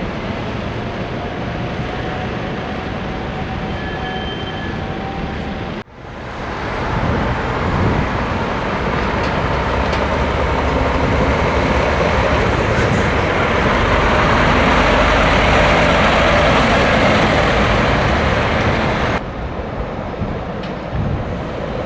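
Scania truck on the road: steady engine and road noise. It breaks off abruptly about six seconds in, builds to a louder stretch in the middle, then drops back suddenly near the end.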